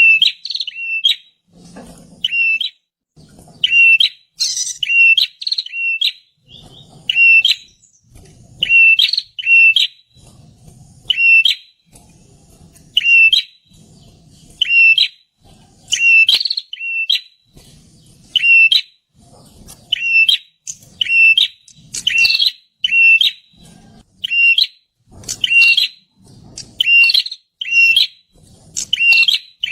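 Perenjak (prinia) calling loudly: short, sharp chirps repeated in quick groups of two or three every second or two, without pause.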